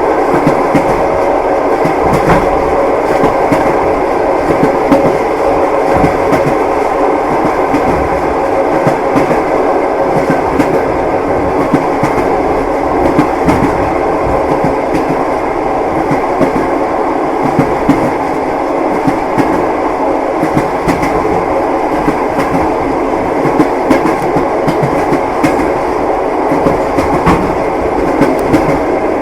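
Passenger train running along the track: a steady rumble with light clicks of the wheels over the rails.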